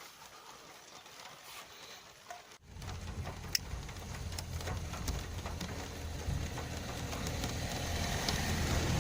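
Faint at first, then from about two and a half seconds in, rain falling with separate drops ticking close by and a low rumble underneath, slowly growing louder.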